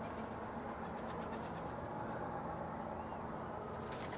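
Faint, steady outdoor background noise with no distinct event, only a few very faint ticks.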